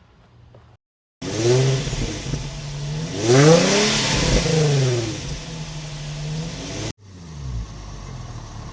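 Nissan 350Z's 3.5-litre V6 revving: the engine note climbs to a peak and falls back, with loud exhaust noise. It starts about a second in and cuts off abruptly near the end, followed by a quieter running sound.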